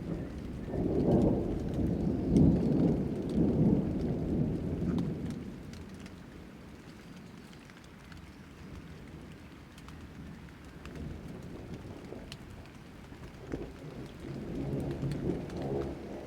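Thunderstorm: steady rain with rolling thunder. A long rumble swells over the first few seconds and dies away, and another roll builds near the end.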